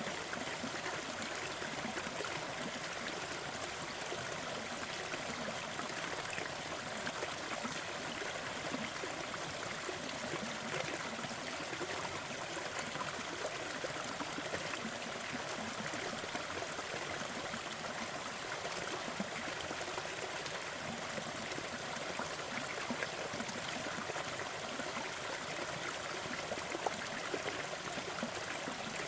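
Waterfall: water falling and splashing, a steady even rush with small splashes scattered through it.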